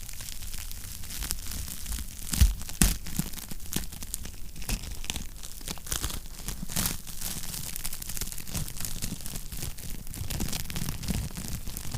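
Wood fire crackling and popping in a fireplace: dense irregular crackles over a low rumble, with a couple of louder pops about two and a half seconds in.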